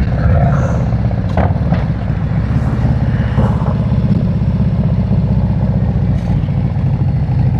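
Harley-Davidson V-twin (Screaming Eagle 131) engine running steadily at low revs with a dense, even low pulse, with a couple of brief clicks about a second and a half in.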